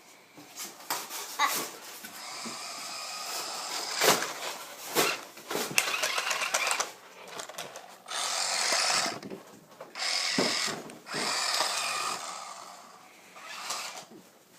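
Remote-control toy car's small electric motors whining in bursts of a second or two as it is driven, with sharp knocks and clatters in between as it bumps into things.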